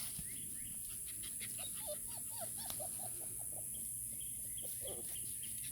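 Young puppies squeaking in quick runs of short, high squeaks, with a few fainter, higher chirps among them.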